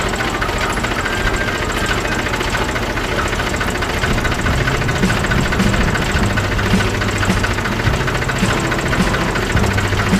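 Tractor engine running steadily with a knocking idle.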